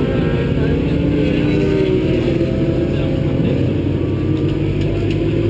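Engine of a track-day vehicle running hard at speed, heard onboard with wind and road noise. Its pitch slowly rises and falls as it accelerates and eases off.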